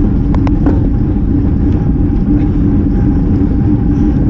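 Wind rushing over the microphone of a camera on a road bike moving at race speed: a dense low rush with a steady hum under it, and a few light ticks about half a second in.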